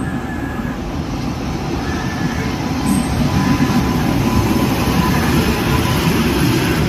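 Indian Railways WAP-7 electric locomotive and its LHB passenger coaches passing at speed, a steady rumble of wheels on rails that grows louder as the locomotive goes by about three seconds in.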